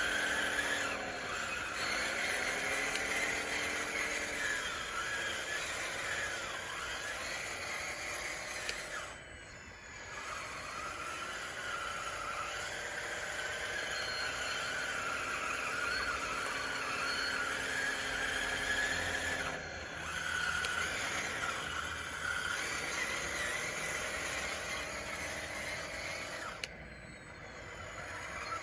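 RC bulldozer's drive running with a whine that rises and falls over and over as it pushes dirt, dropping away briefly about a third of the way in, about two-thirds in and again near the end.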